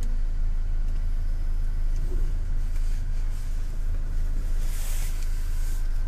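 Automatic car wash heard from inside the car's cabin: a steady, heavy low rumble, with a hissing rush of water spray against the car about five seconds in.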